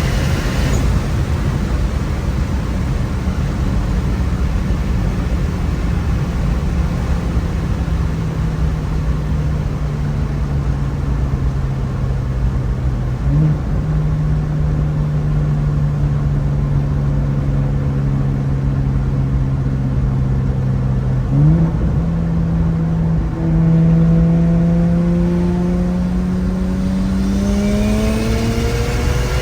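Single-turbo BMW N54 straight-six engine running at a steady cruise over road noise, with two brief jumps in engine pitch. Over the last few seconds the engine pitch rises steadily as the car accelerates.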